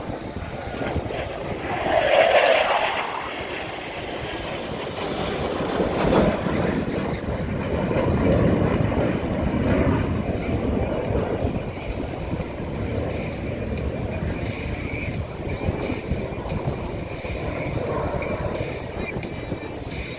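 Aircraft flying past: a steady, noisy rumble that swells and fades, loudest about two seconds in, with smaller swells later.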